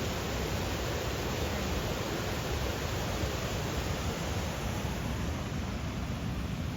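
Low Force waterfall on the River Tees, its water rushing with a steady, unbroken roar.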